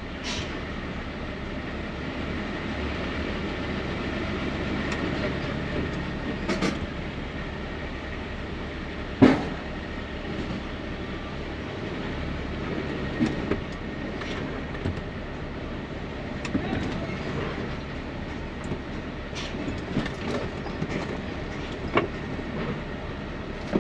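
Rigid truck's diesel engine running inside the cab as the truck moves forward onto the roller brake tester for its rear-axle test, with scattered clunks and rattles. The loudest knock comes about nine seconds in.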